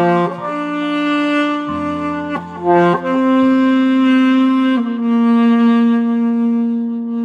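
Saxophone playing a slow song melody with long held notes over a recorded backing accompaniment.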